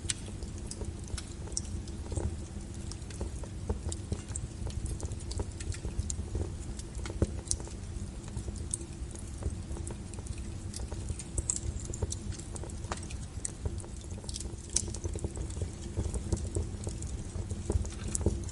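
Logs burning in a fireplace, crackling with irregular sharp pops over a low steady rumble of the fire.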